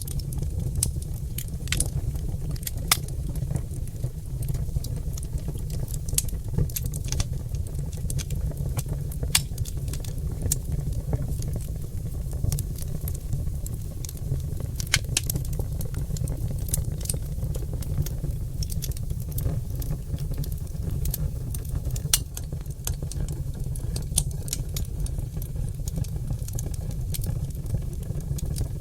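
Oak logs burning in a fireplace: frequent, irregular sharp crackles and pops over a steady low rumble.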